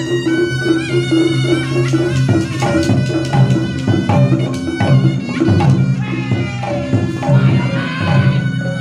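Live reog music: a slompret shawm playing a wavering, reedy melody over steadily repeating gong tones and quick drum strokes.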